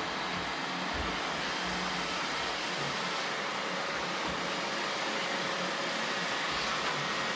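Roomba robot vacuums running steadily, their motors and brushes making a constant hum with a few faint tones and some soft low knocks.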